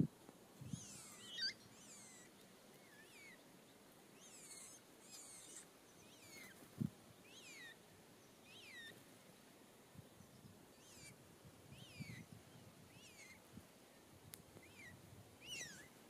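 Faint songbird calls: a series of short notes, each falling in pitch, repeated about once a second. A soft low thump about seven seconds in.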